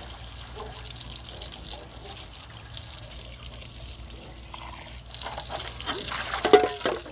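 Water running from a tap and splashing, as in washing at a sink. It grows louder about five seconds in, with a few knocks and clatter near the end.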